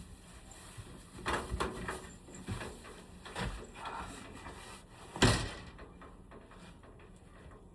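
A run of knocks and clatters from things being handled, ending in one sharp bang, the loudest, about five seconds in.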